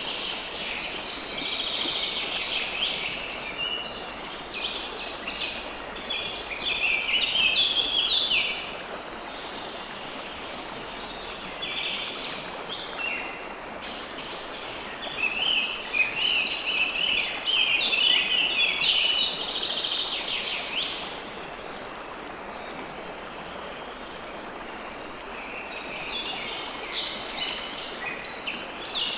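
River water flowing steadily, with songbirds chirping over it in bouts of quick, dense notes: a long spell at the start, another through the middle, and a third near the end.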